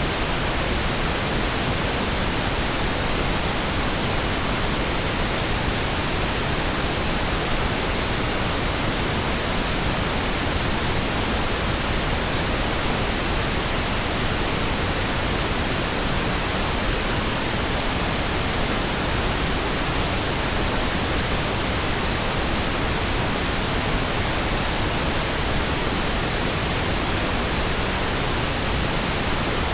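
Steady, continuous pink noise: an even, unchanging hiss across the whole range.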